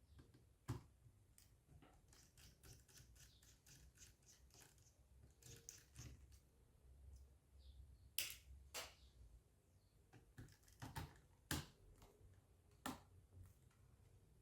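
Light clicks and taps of a screwdriver and small parts being handled while a laptop hard drive is unscrewed and detached. There is a quick run of faint ticks, then a few sharper clicks spaced a second or so apart.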